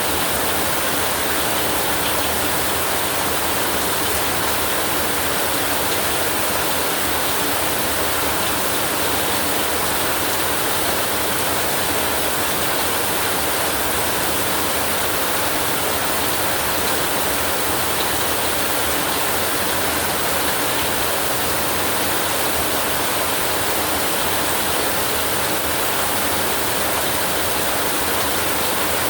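Steady rain falling, an even, unbroken hiss with no rises or single drops standing out.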